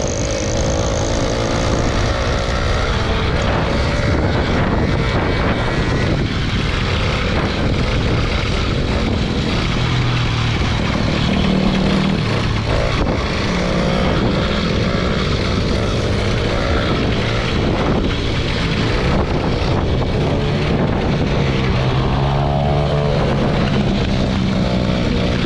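Small motorbike engine running under way, its pitch shifting up and down, with a rising rev near the end.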